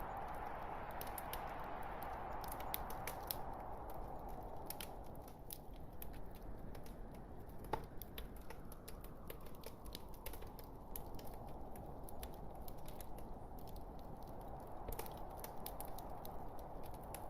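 Log fire crackling in a fireplace: a steady hiss from the burning wood with frequent small snaps and pops, and one louder pop about eight seconds in.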